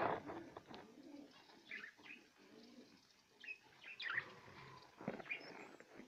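Cage birds giving a few short, scattered chirps, spaced a second or more apart, one of them sliding down in pitch about four seconds in.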